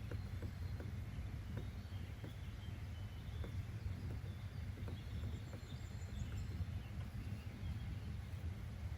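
Nature ambience: a steady low rumble with faint birds chirping and scattered light ticks.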